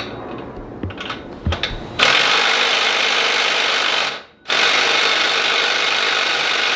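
Light metal tool clinks, then a handheld power tool, a drill or driver, runs at full speed on an exhaust bolt in two long bursts with a short break between them. The bolt does not come free.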